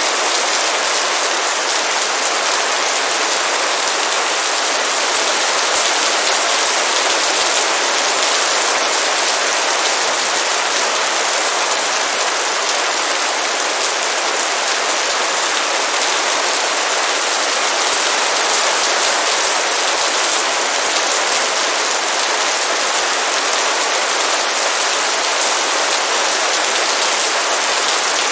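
Heavy rain pouring down steadily: a dense, even hiss of drops on surfaces.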